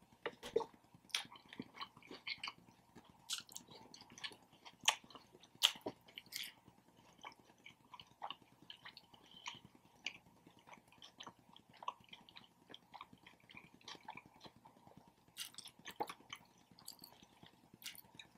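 A person chewing and biting into a Subway footlong sub sandwich: quiet, irregular wet mouth clicks and smacks.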